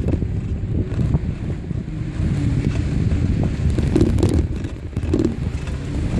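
Wind rumbling on the microphone of a moving bicycle ride: a dense, low, uneven rumble.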